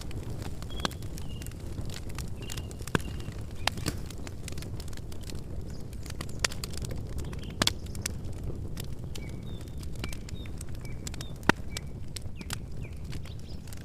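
Campfire burning, with a steady low rumble of the flames and frequent sharp crackles and pops from the wood, one louder pop near the end. A few short, high chirps of small birds sound through it.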